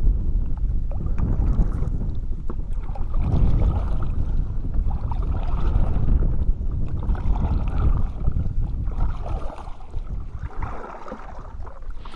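Wind rumbling on the microphone with water splashing and lapping against a kayak hull, easing off near the end.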